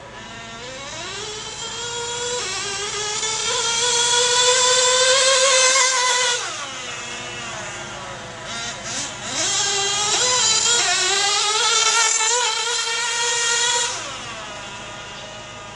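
Small GO 0.98cc glow nitro engine of a 1/16 scale RC buggy running at high revs in two full-throttle runs, each rising steadily in pitch and then dropping away abruptly, the first ending about six seconds in and the second near fourteen seconds, with a lower idle-like drone between and after.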